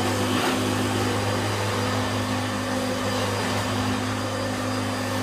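1992 Hoover Turbo Boost upright vacuum cleaner, a dirty-fan machine, running steadily on its normal setting as it cleans carpet, with a steady motor hum.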